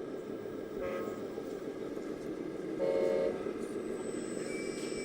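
A short electronic horn toot from a scale RC truck or tractor's sound module, loudest about three seconds in, with a fainter brief tone about a second in, over a steady background hum.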